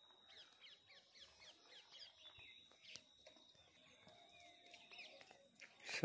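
Faint, scattered short bird chirps and tweets over a quiet outdoor hush.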